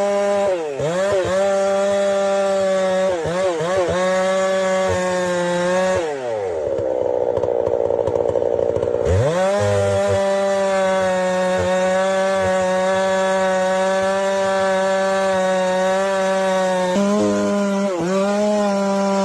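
Two-stroke chainsaw running at full throttle in a cut, its pitch dipping briefly under load several times. About six seconds in the throttle is let off and the engine falls toward idle for about three seconds, then revs back up and runs steady.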